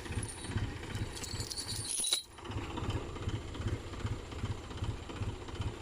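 A heavy diesel engine running steadily at low revs, with an even low throb. The sound dips out briefly about two seconds in.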